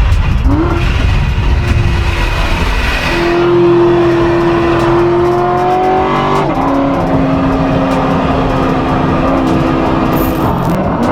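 Modified 840-horsepower C7 Corvette's V8 accelerating under load. Its pitch jumps up about half a second in and then climbs slowly. About six and a half seconds in it drops at an upshift, then holds and starts climbing again near the end.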